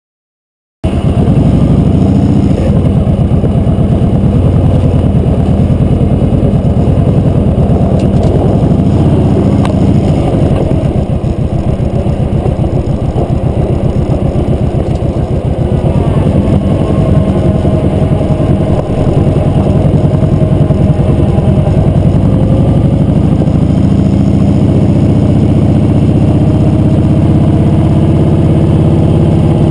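Motorcycle engine running steadily while riding, starting abruptly about a second in. Its pitch climbs a couple of times in the second half as the bike accelerates.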